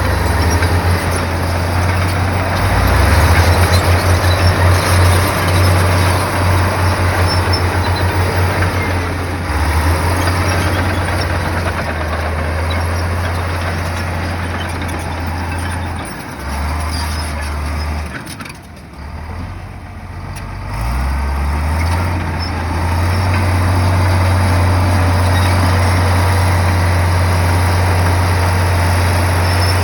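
Komatsu bulldozer's diesel engine working under load, its low drone shifting in pitch as the throttle changes. A little past halfway it eases off almost to idle, then revs back up and holds a steady working note.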